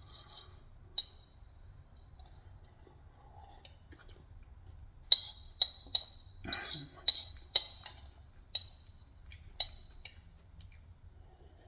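A spoon clinking against a bowl: one tap, then about eight sharp ringing clinks in quick succession a few seconds later.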